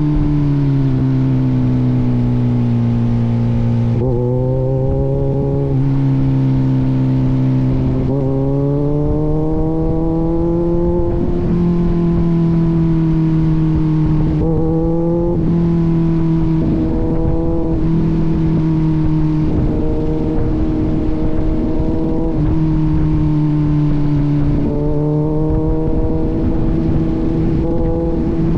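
Kawasaki Z900's inline-four engine with an aftermarket AR exhaust, running under way on the road. The engine note drops over the first few seconds and climbs again from about eight seconds in. It then holds fairly even, with a few brief dips as the throttle eases.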